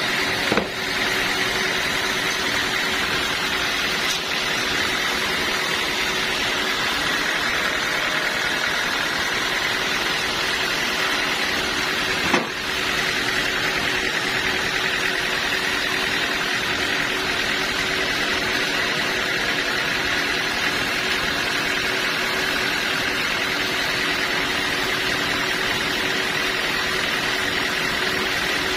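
Sawmill machinery running steadily: an even mechanical noise with a steady high whine. Two short knocks sound, about half a second in and about twelve seconds in.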